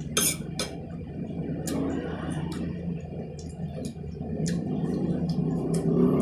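Close-up eating sounds: chewing raw cucumber, with a scatter of short, sharp crunchy clicks and smacks at uneven intervals over a steady low hum.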